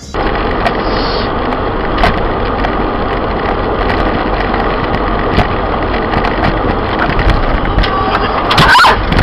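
Steady road and engine noise inside a moving car, with scattered light knocks and a short, loud burst of noise near the end.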